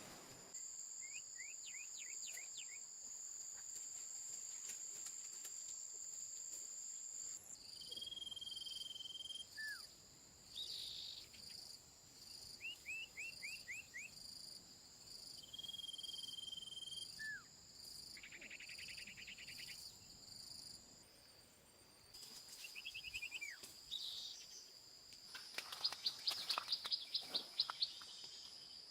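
Rainforest ambience: insects shrilling steadily at a high pitch, with birds calling over them in quick runs of chirps and a held whistle. Near the end comes a loud, rapid series of sharp calls.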